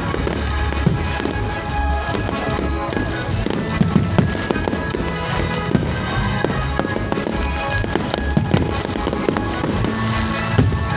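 Fireworks display: aerial shells bursting in irregular bangs, several close together at times, over music playing throughout.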